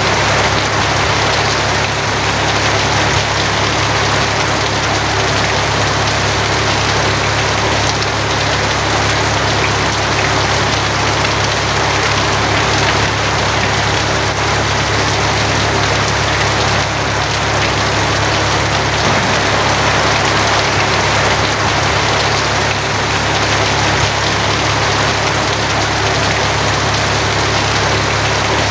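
Steady rain drumming on a tin roof, even and unbroken, over a constant low hum.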